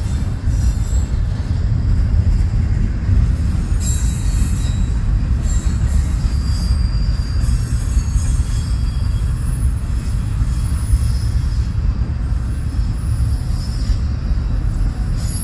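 Double-stack intermodal container cars of a freight train rolling past: a steady, heavy rumble of steel wheels on rail, with faint high wheel squeals now and then.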